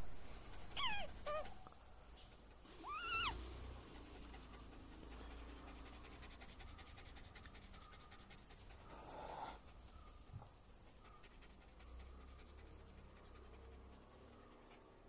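Dog whining: two short pitched cries within the first few seconds, the first falling in pitch and the second rising then holding, followed by faint quieter sounds.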